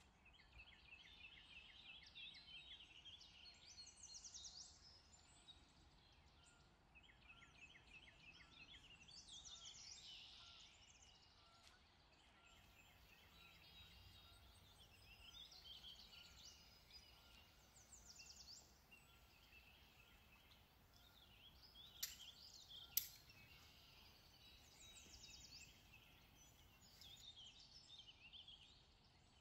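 Faint birdsong: several birds singing short repeated phrases of high chirps and trills every few seconds. Two sharp clicks about a second apart come about three quarters of the way through.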